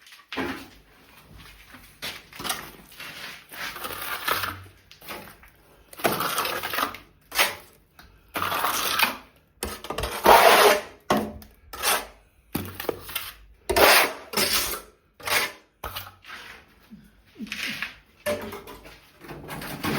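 Irregular scraping, rattling and knocking of hand building work, in uneven bursts of about a second each.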